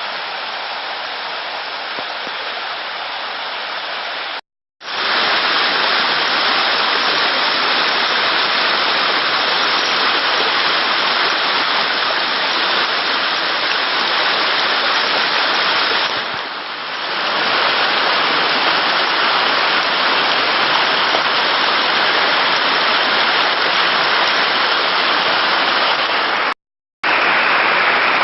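Rushing water, a steady, even rush of noise, broken twice by a brief silent gap where the clips are cut.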